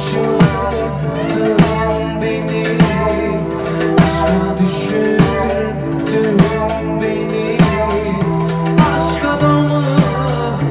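Live band playing an instrumental stretch of a Turkish psychedelic folk-rock song, with drum kit, bass and guitar in a steady groove and a heavy beat about every 1.2 seconds.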